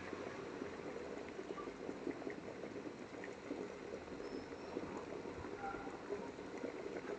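Electric kettle with water at or near the boil: a steady bubbling, thick with small crackles.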